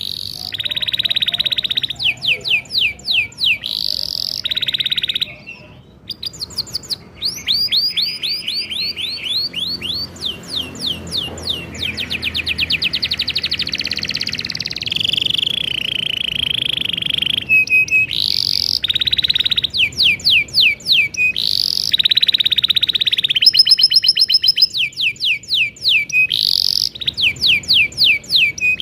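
Domestic canary singing a long song of rapid trills and rolls, changing between fast repeated chirping phrases and dense buzzy rolled notes, with a short break about five seconds in.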